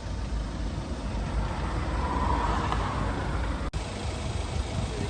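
Car engine running at low revs, a steady low rumble.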